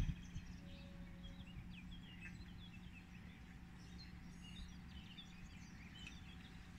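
Faint outdoor ambience with birds chirping, many short high calls scattered throughout, over a faint steady low hum.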